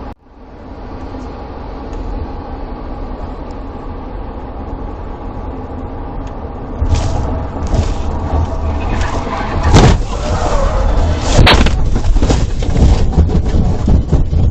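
A vehicle running with engine and road noise that grows louder. From about seven seconds in come a series of loud bangs and knocks, the loudest near ten and eleven and a half seconds.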